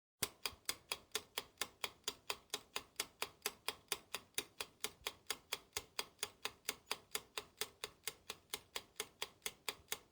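Clock ticking sound effect, even sharp ticks at about four a second, as a countdown timer for answering a quiz question.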